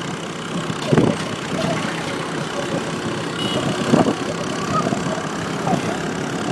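Motorcycle riding along a road: the engine running under steady road and wind noise, with two sharp thumps, about a second in and again about four seconds in.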